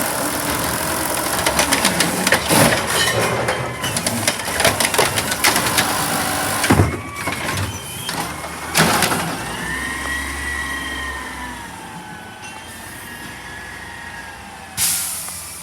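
Recycling truck at work: a rapid clatter of knocks and bangs for the first several seconds, then a wavering whine from the truck that rises and falls and slowly fades, with a sudden bang near the end.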